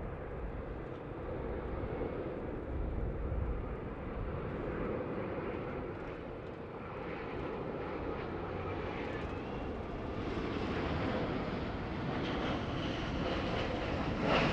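Jet airliner's engines running, a steady noise that builds over the last few seconds, with a low rumble underneath.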